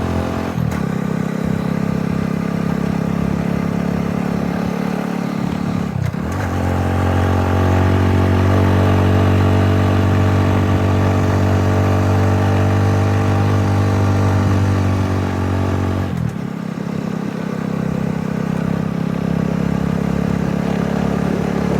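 An engine running steadily. Its pitch dips briefly about six seconds in, and again about ten seconds later. The stretch between the two dips is louder.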